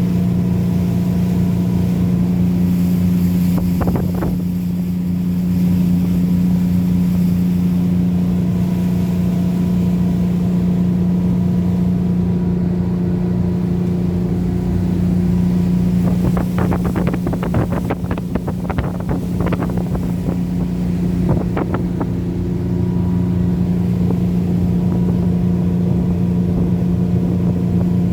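Engine of a Primor 24 motor boat running at a steady speed under way on a test run after engine repairs, a constant hum. A few short clicks or knocks come about four seconds in and in a cluster around the middle to two-thirds through.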